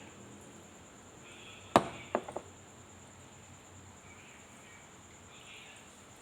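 A single sharp knock, followed a moment later by three quicker, lighter knocks.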